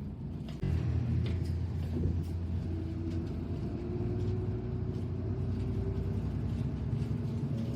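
Low rumble of a moving vehicle, which gets suddenly louder under a second in, with a faint whine that slowly rises in pitch as it gathers speed.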